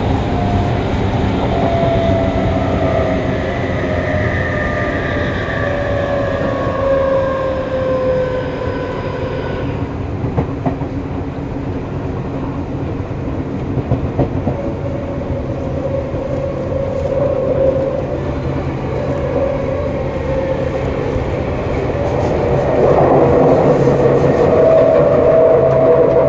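Y500-series electric train running, heard from the gangway between cars: for about the first ten seconds the motor whine falls in pitch, several tones together, as the train slows, then plain wheel-and-rail running noise with a few knocks, growing louder again near the end with a new steady whine.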